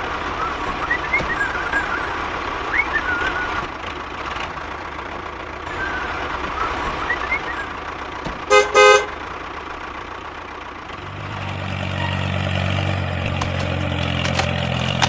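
A vehicle horn toots twice in quick succession about halfway through, over a steady hiss with faint high chirps. About eleven seconds in, a low engine hum starts and then runs steadily.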